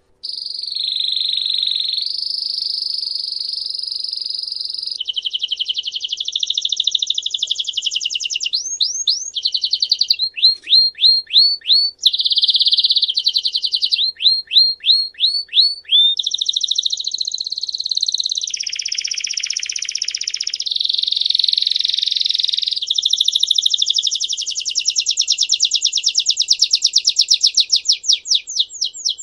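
Songbird singing a long, continuous song of high trills and rolls, switching every second or two to a new phrase of rapidly repeated notes, some held steady and some falling sharply in pitch, with a series of notes quickening near the end.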